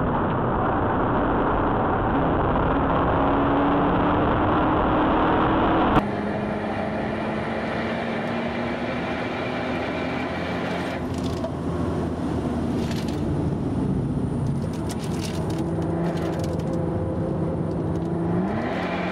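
Mercedes-AMG car driven at speed on a race circuit. For about six seconds heavy wind rush covers an engine note that rises steadily under acceleration. Then the sound changes suddenly to the engine as heard inside the cabin, running steadily with some crackle, and the revs sweep up quickly near the end.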